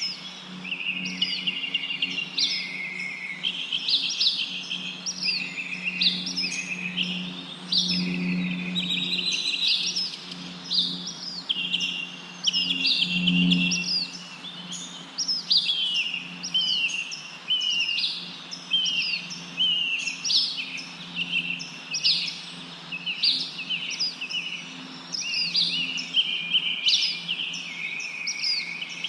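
Many birds chirping at once, a dense chorus of short, quick, often falling notes that never stops. A faint low steady hum sits underneath.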